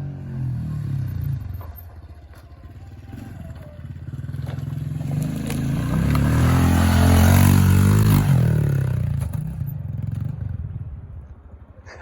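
Pit bike engine riding past: it is running early on, drops back, then builds to a loud pass about seven to eight seconds in and fades away, its pitch dropping as it goes.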